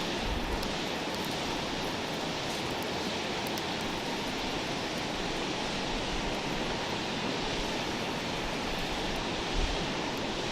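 Wood campfire burning with a steady hiss and faint scattered crackles.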